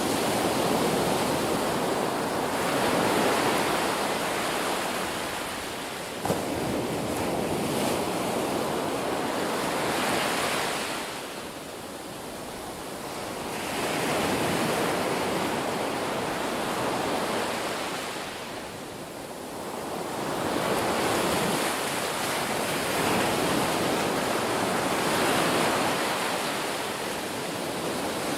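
Ocean waves breaking and washing on a shore, the surf swelling and easing in slow surges every several seconds.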